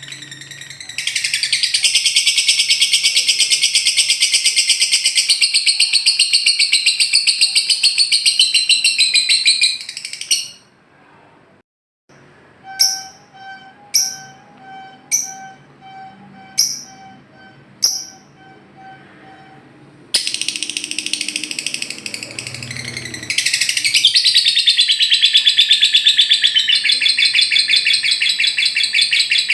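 Lovebird singing its long, rapid, high chattering trill ('ngekek'), held for about nine seconds before breaking off. A run of short sharp chirps follows. The long trill starts up again about two-thirds of the way in.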